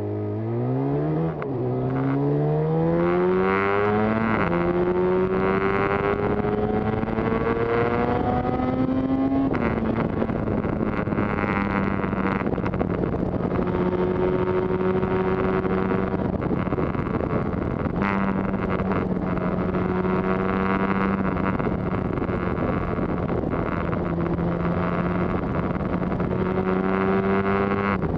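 Yamaha TZR250's two-stroke twin engine pulling as the bike accelerates, its pitch climbing through the gears with upshifts about 4 and 9.5 seconds in, then running at a steadier pitch while cruising, with a few small drops in revs later on.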